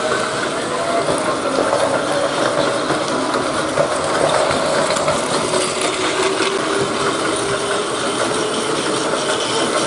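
Battery-powered Plarail toy trains running on plastic track, their small motors and gearboxes whirring and clattering steadily.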